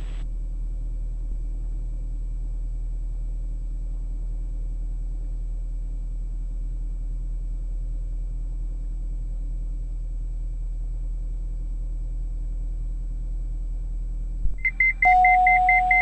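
Steady low hum of the aircraft cabin heard through the intercom, with a faint high whine. About a second and a half before the end, a loud fast-pulsing high beep starts, joined by a steady lower tone that breaks off once.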